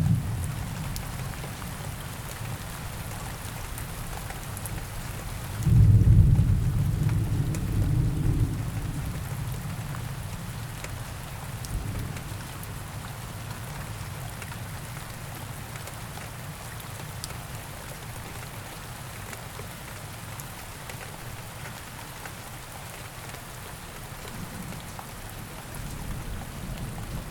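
Steady rain falling, with a loud low thunder rumble about six seconds in that fades away over the next few seconds. A fainter rumble is dying out at the start, and another begins to build near the end.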